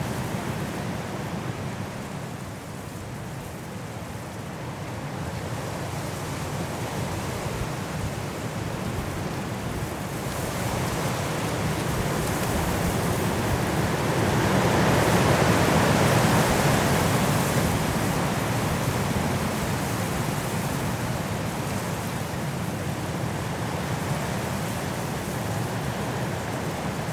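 High wind blowing through mountain forest trees in a snowstorm, a steady rushing that builds into a strong gust a little past the middle and then eases off.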